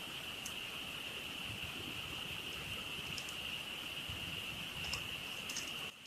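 A steady, high-pitched chorus of frogs calling, with a few faint crackling pops from a campfire. The whole sound drops sharply in level near the end.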